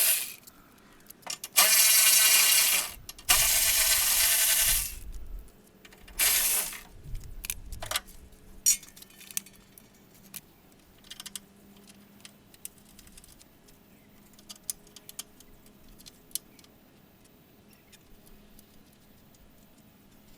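Mechanic's tools and metal parts at work under the hood: loud bursts of a second or two each in the first few seconds, then scattered light metallic clinks and taps as the radiator is unbolted.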